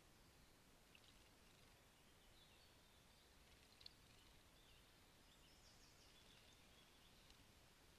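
Faint birdsong: scattered high, thin chirps and short phrases over a steady background hiss, with one brief sharp click about four seconds in.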